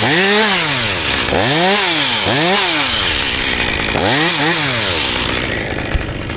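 Chainsaw revved up and down in about five quick throttle blips, its pitch rising and falling each time, then running more steadily near the end.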